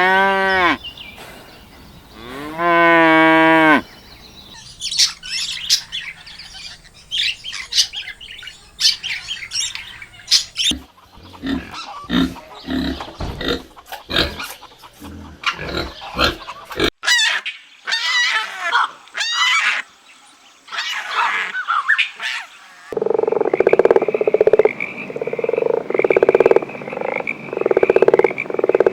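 A succession of farm animal calls. A cow moos, with a long drawn-out call about two seconds in. Then come scattered short chirps and clicks, and near the end a run of repeated pulsed calls, about one a second.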